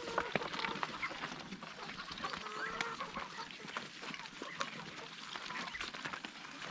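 Domestic ducks quacking and calling in a group, with many short clicks and taps among the calls.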